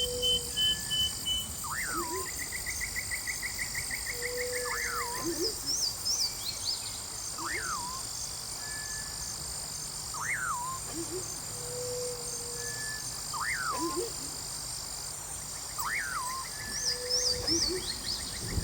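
Nature ambience: an animal call sweeping up and back down repeats about every second and a half, with short high chirps and a brief rapid trill. Underneath runs a steady high insect-like drone and a soft low rush.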